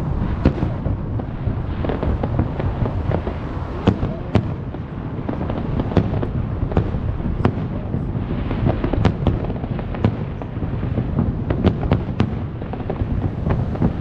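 Aerial fireworks going off in quick succession: many sharp bangs and crackles over a continuous low rumble.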